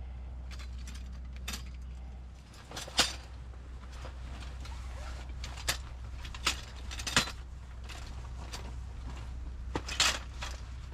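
Objects being handled: five or so sharp clicks and clacks, the loudest about three seconds in, over a steady low rumble.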